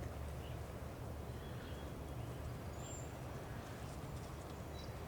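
Faint bird chirps, a few short high notes, over a steady low rumble.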